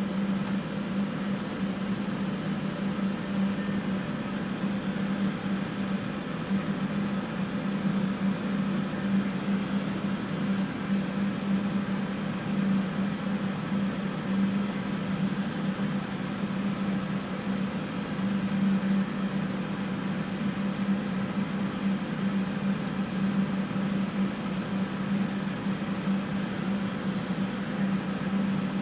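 Several electric fans running steadily to clear soldering fumes: a constant low hum under an even rush of moving air.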